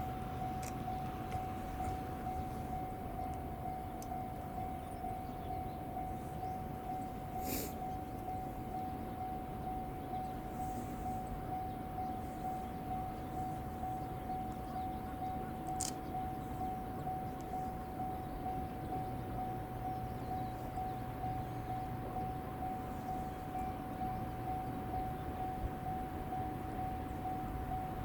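Railway level-crossing alarm ringing continuously at one pitch, over a low rumble.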